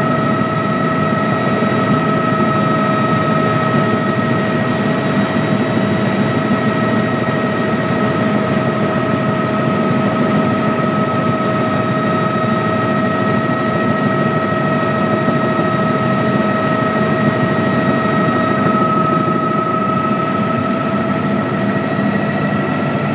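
Helicopter running steadily: a constant engine and rotor noise with a steady high whine over it, unchanging in pitch and level.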